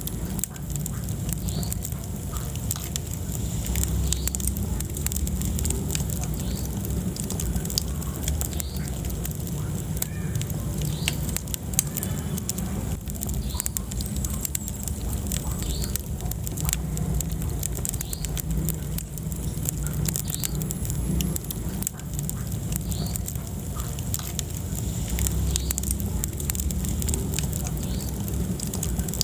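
Wood fire burning in a fireplace: a steady low rumble of flames with frequent sharp crackles and pops from the burning logs throughout.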